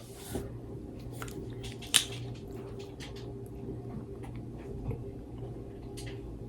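A person chewing and eating close to the microphone: small wet mouth sounds and clicks, with one sharp click about two seconds in, over a steady low hum.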